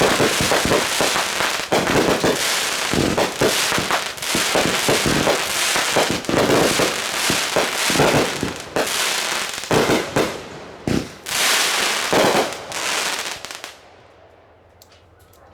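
Consumer fireworks going off in a dense barrage of rapid bangs and crackling pops, which cuts off abruptly near the end.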